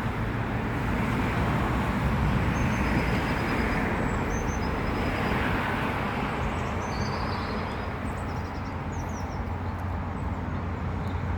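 Northern Ireland Railways Class 3000 diesel multiple unit coming through the station: a steady rumble of engine and wheels on rail, with a few short high squeaks above it.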